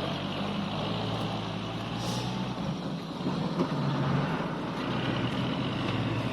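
Dump truck engine running steadily.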